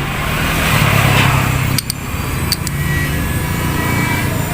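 A motor vehicle engine running close by, swelling for about a second and a half, then dropping off suddenly, with a couple of sharp clicks about two and a half seconds in.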